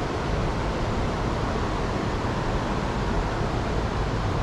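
Steady rushing of a fast creek current, with a low rumble underneath.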